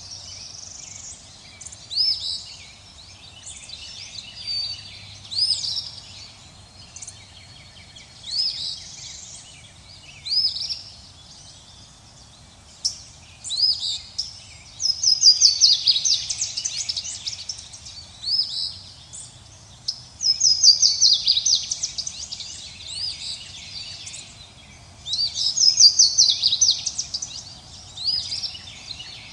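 Songbirds chirping: short high call notes every second or two, then loud, rapid trilled phrases about halfway through and again near the end, over a faint steady background noise.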